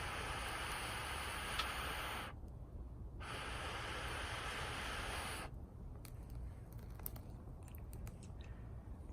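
Small twig fire in a mini stainless fire pit: two long stretches of steady hiss broken by a short pause. After that, faint crackling and popping of the burning twigs.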